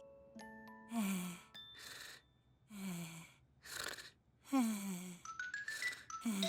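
Cartoon characters breathing in their sleep: soft noisy in-breaths alternate with sighing out-breaths on a short falling voice, about four breaths in all. A short run of twinkly notes rises near the end.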